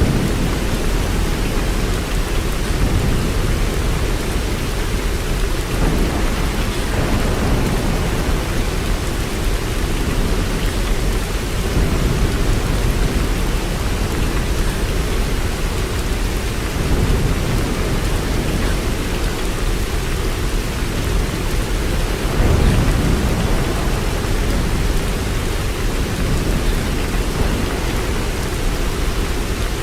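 Steady rain falling, with low rumbles of thunder swelling under it now and then; the strongest comes about two-thirds of the way through.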